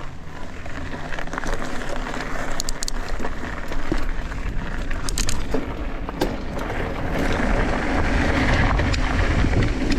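Mountain bike rolling off, with wind rumble on the microphone and scattered clicks and rattles; the noise grows louder from about seven seconds in.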